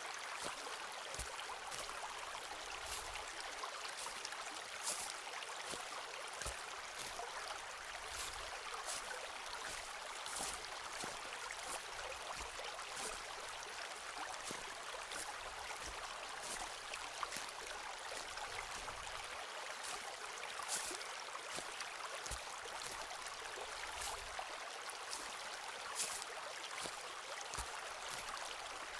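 Footsteps walking on a forest path, a step every second or two, over the steady rush of a nearby stream.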